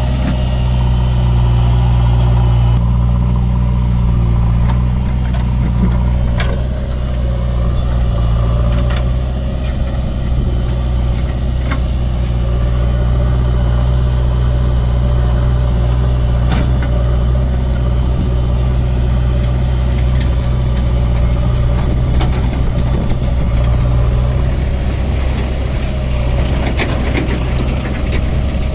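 Diesel engine running steadily at idle, with a few short sharp clicks or knocks along the way.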